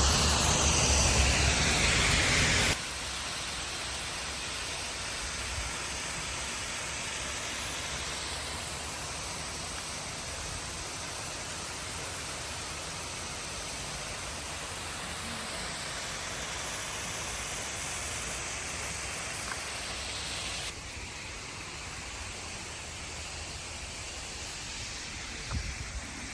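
Steady rushing water of a waterfall, an even hiss with no other events. It drops sharply in level about three seconds in and again near the end, as the footage cuts between spots.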